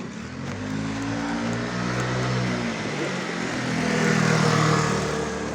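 A motor vehicle passing by, its engine getting louder to a peak about four to five seconds in and then starting to fade.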